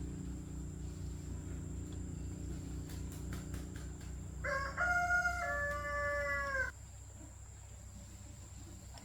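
A rooster crowing once, about halfway through, a short note followed by a longer falling one lasting about two seconds. Under it runs a steady low hum that cuts off abruptly about two-thirds of the way in, with a few light clicks shortly before the crow.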